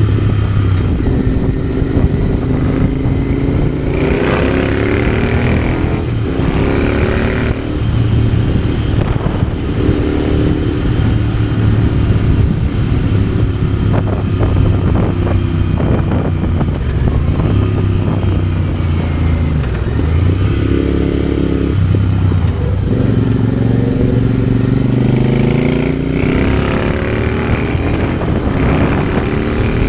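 Motorcycle engine running on the move, its revs rising and falling several times as the rider accelerates, backs off and shifts, with wind noise on the microphone.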